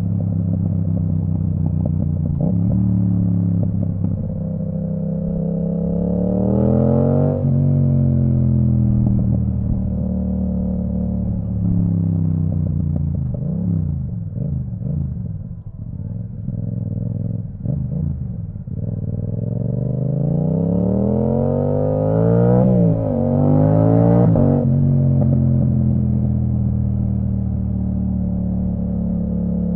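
2022 Yamaha MT-07's 689 cc parallel-twin engine through an Akrapovic full titanium exhaust with the dB killer out, cruising steadily, then revving up with a quick drop in pitch as it shifts up. In the middle the revs fall away with scattered crackles off the throttle, then it pulls hard again through another quick upshift and settles back to steady cruising.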